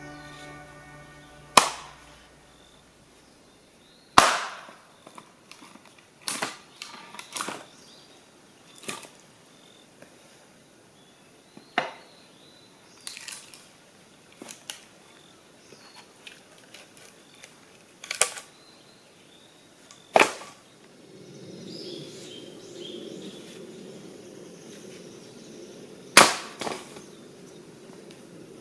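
Burning firewood popping: sharp single cracks every few seconds, about ten in all, some followed by smaller crackles. A low steady rush comes in about two-thirds of the way through.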